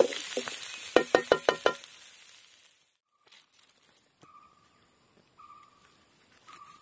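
Mussel stir-fry sizzling in a metal wok while it is stirred, with five quick ringing knocks of the stirring tool against the wok about a second in. The sizzle fades out at about three seconds.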